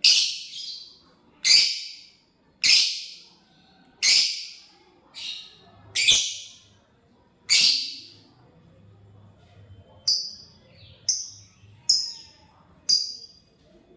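Lovebird calling: a series of shrill, harsh calls about one every second and a half, then four shorter, clearer chirps near the end.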